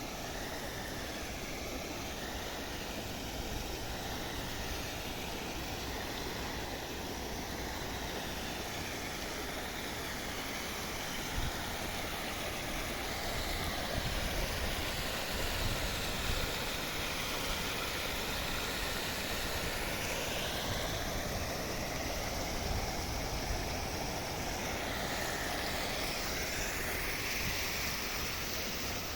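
Small river flowing, a steady rush of running water.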